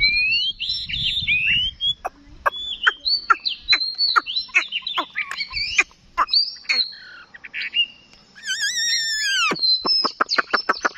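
Chinese hwamei singing a varied song of loud, sweeping whistled notes. About two-thirds through comes one long falling slur, followed by a fast run of short repeated notes near the end.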